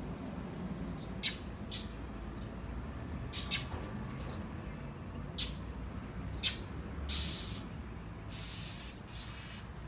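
Birds giving short, sharp chirps, about six scattered over several seconds, over a steady low background rumble.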